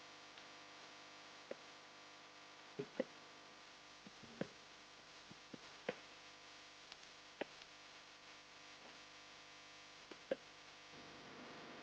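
Near silence: a faint steady hum with soft ticks scattered irregularly, about ten of them.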